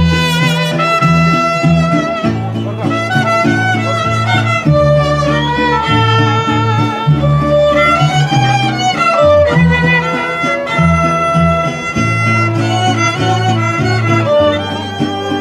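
Mariachi band playing an instrumental interlude: violins carry the melody with vibrato over a strummed guitar rhythm and a pulsing bass line.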